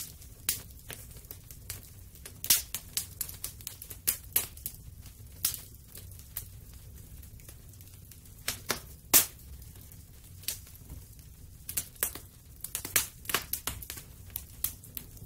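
Wood fire in a fireplace crackling: irregular sharp pops and snaps over a steady low rumble of the burning fire, with bursts of quick pops about a third of the way in and again near the end.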